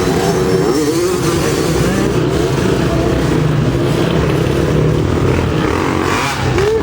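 Racing motorcycle engines running loudly, their pitch rising and falling as the bikes go through the gears.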